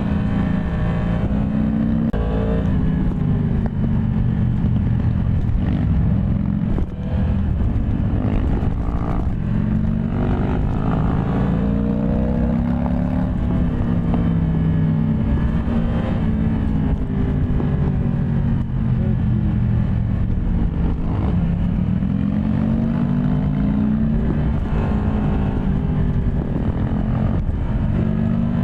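Yamaha MT-10 SP's crossplane inline-four running under way, its pitch rising and falling again and again as the rider accelerates and backs off, with a brief drop in level about seven seconds in.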